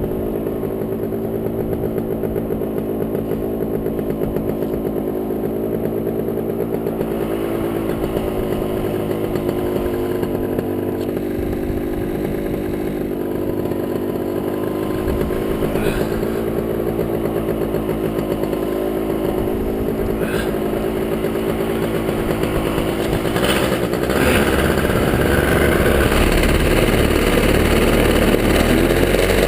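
Top80 single-cylinder two-stroke paramotor engine running steadily at low throttle. About 24 seconds in it is throttled up and runs louder, and its pitch begins rising near the end.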